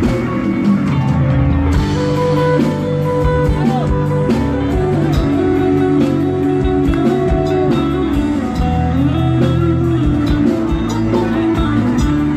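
Live band playing an instrumental passage between sung lines: a lead electric guitar line with bent notes over bass and a steady drum beat.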